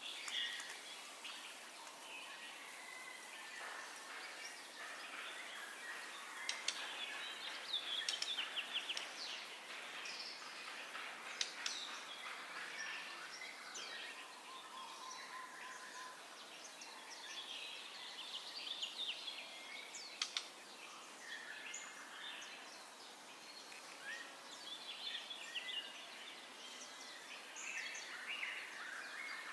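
White-rumped shama (murai batu) singing: a long, varied run of quick whistles, chirps and sharp rapid notes, over a steady background hiss.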